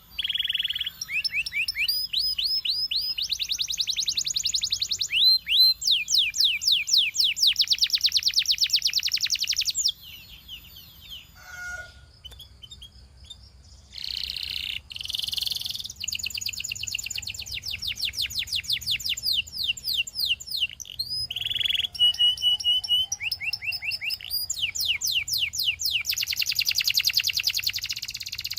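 Canary singing long, fast, high trills of repeated notes, each run a few seconds long. The song breaks off about ten seconds in, a couple of short harsh rasping notes follow a few seconds later, then the trills resume.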